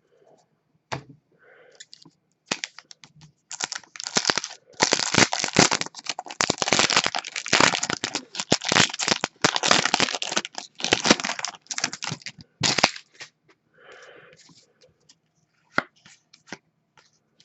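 Foil trading-card pack being torn open and its wrapper crinkled: a dense run of crackling rips lasting several seconds, with a few light clicks before and after.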